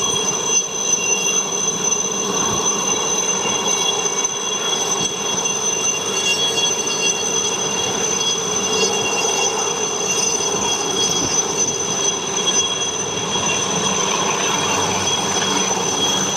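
Chetak helicopters flying overhead: the steady whine of their turboshaft engines, several high tones held over a constant rushing rotor noise.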